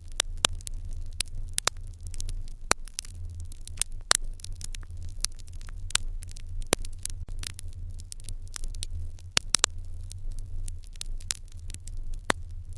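Wood fire crackling in an irori hearth: irregular sharp pops and snaps, several a second with a few louder ones, over a steady low rumble.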